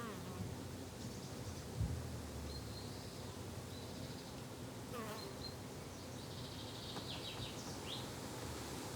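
Summer garden ambience: flying insects such as bees and flies buzzing steadily, with short bird chirps about halfway through and again near the end. A brief low thump comes about two seconds in.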